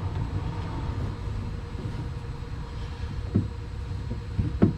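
Magnetic drill motor running steadily with a low hum, with two short knocks, one about three seconds in and one near the end.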